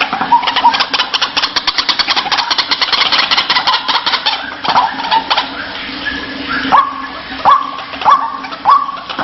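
White-breasted waterhen (ruak-ruak) calling. It gives a fast rattling chatter for the first half, then a run of repeated calls, each rising sharply and then held, nearly two a second.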